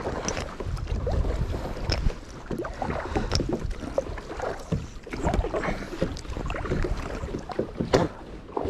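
Water splashing and irregular knocks around a small boat, with wind rumbling on the microphone.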